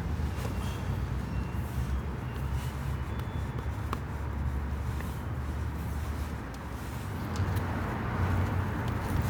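Steady low rumble of road traffic, with a light even hiss above it.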